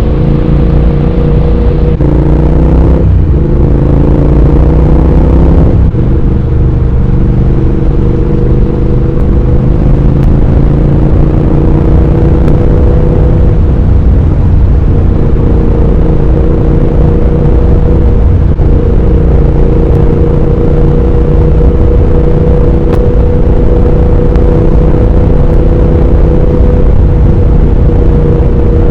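Triumph Speed Twin 1200's parallel-twin engine and exhaust on the move, pulling up through the gears with the pitch climbing and dropping back at three quick upshifts in the first six seconds. It then settles into a steady cruise.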